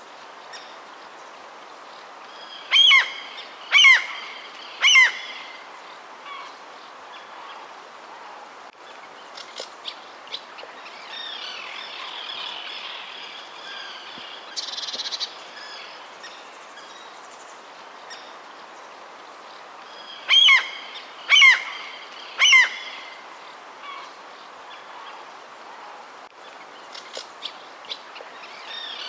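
Birds calling over a steady background hiss. A loud three-note call, the notes about a second apart, comes twice: a few seconds in and again about twenty seconds in. Fainter chirps sound in between.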